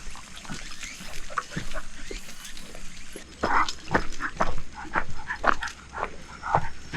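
A dog close to the microphone making a run of short, quick noises that come thicker and louder from about halfway through.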